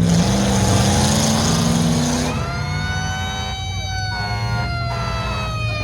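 Truck engines running loudly, then a siren starts about two seconds in and wails on with a slowly falling pitch over the engine noise.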